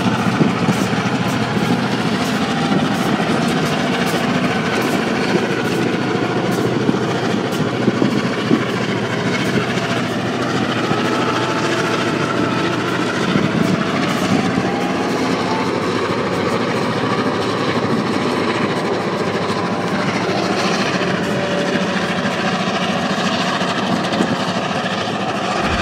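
Two diesel freight locomotives, an Elgin, Joliet & Eastern unit and a Grand Trunk Western unit, passing close with a steady engine drone, with freight cars rolling by behind them and scattered sharp clicks from the rolling train.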